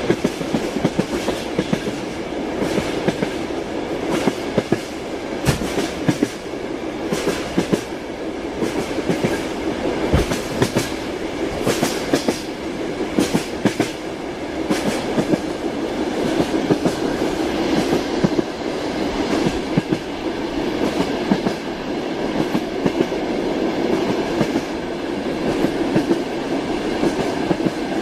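Train running on the rails: a steady rumble with the clickety-clack of wheels passing over rail joints, sharp clicks coming irregularly throughout.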